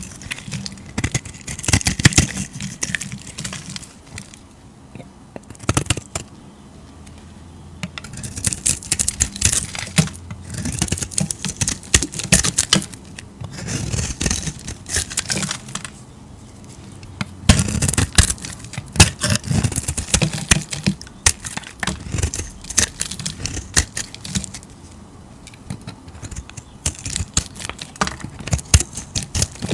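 A knife cutting and scraping through bars of soap: crisp, crackly crunches in bursts, with short pauses between the cuts.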